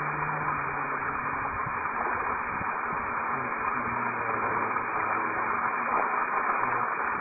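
Steady static-like hiss, as from a noisy old recording or radio, with faint low hum-like tones underneath; it cuts off suddenly at the very end.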